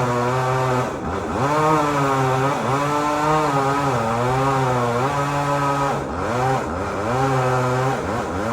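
Chainsaw running at high revs, its pitch dipping and recovering several times as it bogs under load in the cut, about a second in, near two and a half seconds, around six seconds and near the end.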